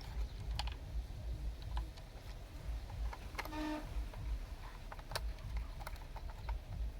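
Huina 1569 remote-control bulldozer running, its plastic tracks and gears giving scattered irregular clicks over a low rumble. A short tone sounds once, about three and a half seconds in.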